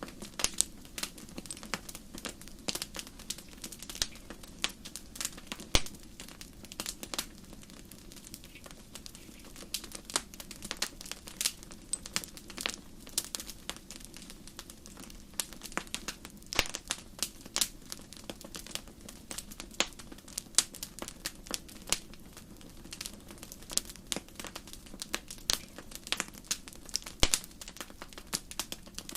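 Campfire crackling: many irregular sharp pops and snaps over a steady low rush of burning.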